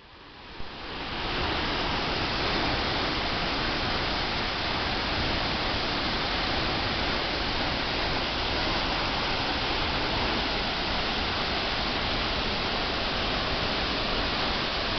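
Large waterfall pounding down, heard from the bottom of the falls: a loud, steady, dense rush of water that fades in over the first second or so.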